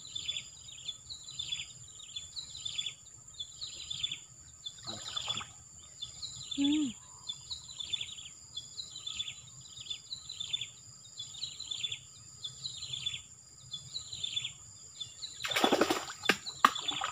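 A bird repeats a short falling call about twice a second over a steady high-pitched whine. Near the end there is loud rustling and splashing as a person wades through the weedy ditch water.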